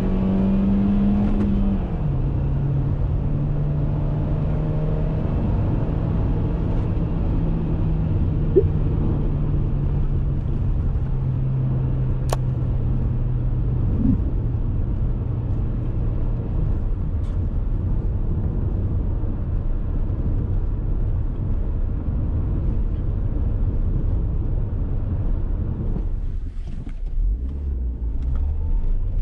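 Dacia Duster's 1.6 SCe four-cylinder petrol engine pulling under load, revs climbing for a second or two, then dropping sharply on an upshift. The engine note then holds steady and sinks slowly over a constant road and tyre rumble. Near the end the engine note fades, leaving mostly low rumble.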